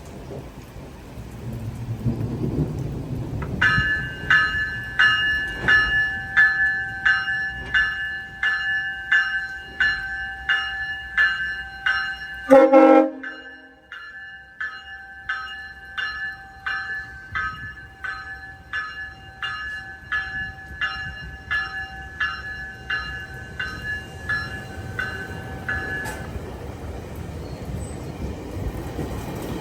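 A railway bell ringing in a steady rhythm, about three strikes every two seconds, starting a few seconds in and stopping suddenly near the end. About halfway through, one short, louder, lower-pitched tone cuts in.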